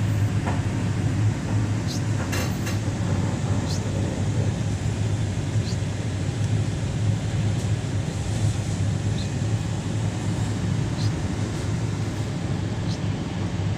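Passenger train rolling slowly over a bridge, heard from inside the carriage: a steady low rumble and hum with a few faint clicks scattered through.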